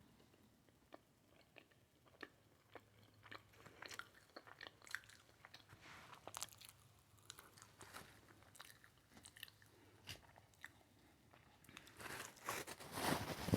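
Close-miked chewing: soft clicks and smacks of a mouth working a tough bite of food, getting louder and busier near the end.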